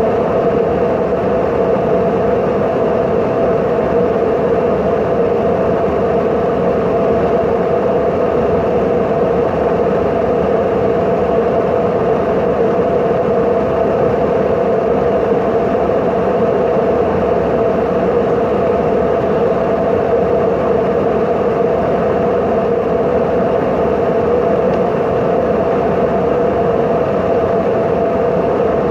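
Steady, unchanging drone of an airplane in flight, with a constant hum over a rushing noise.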